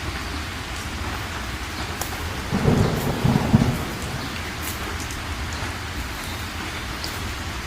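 Heavy rain falling steadily, with a short rumble of thunder starting about two and a half seconds in and lasting just over a second.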